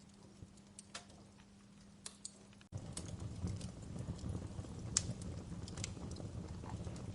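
Wood fire crackling with scattered sharp pops. About two and a half seconds in, the sound cuts out for an instant and comes back with a louder low rumble of flames under the crackle.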